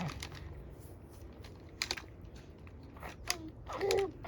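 A few sharp plastic clicks and knocks as toy cars and the plastic car-wash playset are handled, with a short voice sound near the end.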